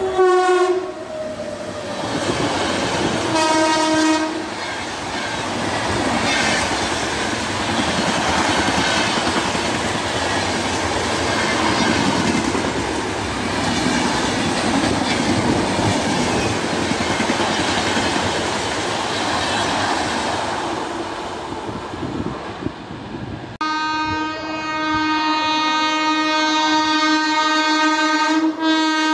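Train horn sounding as a locomotive passes at speed, its pitch dropping as it goes by, then a second short horn blast. The coaches follow, rushing past with wheel clatter for about twenty seconds. After an abrupt change near the end, a second oncoming train sounds one long horn whose pitch drops as it passes.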